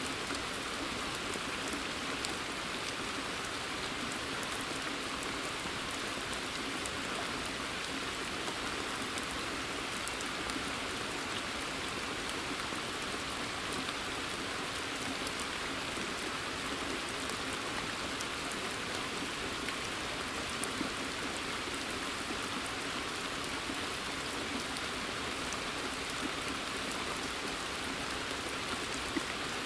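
Steady rain falling in a forest: an even hiss dotted with many fine ticks of individual drops.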